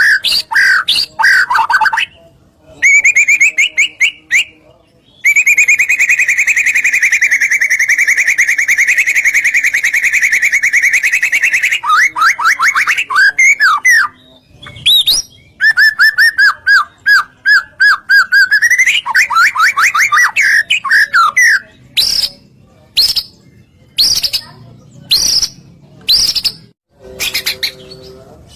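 White-rumped shama (murai batu) singing loudly in varied phrases: fast rattling trills, a long one held for several seconds, and whistled sweeps, then short sharp notes repeated about once a second near the end.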